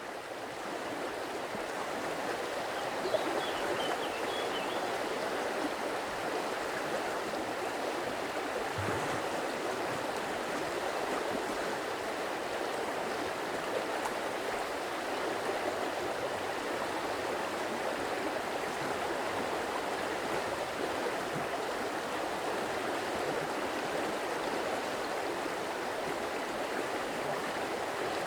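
A stream of running water, a steady rushing and gurgling that fades in over the first couple of seconds. A few faint high bird chirps come about three seconds in.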